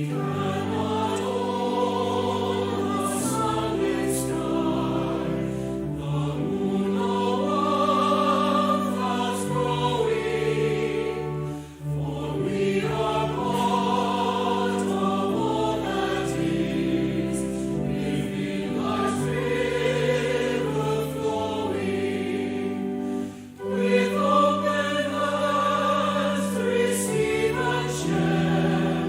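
Choir singing with accompaniment in long held chords over steady bass notes, phrase after phrase, with short breaks about twelve and twenty-three seconds in.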